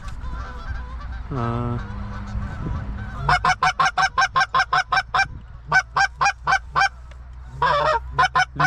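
Canada goose honking: a drawn-out falling honk about a second and a half in, then a rapid run of short clucking honks, about four a second, from about three seconds in, with more honks near the end.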